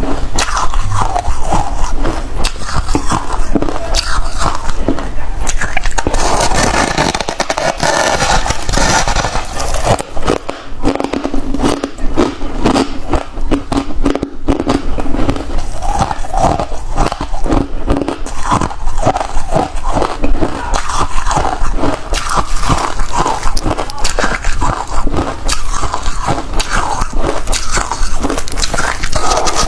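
Close-up biting and chewing of crunchy freezer frost: dense, irregular crunching and crackling, steady in loudness.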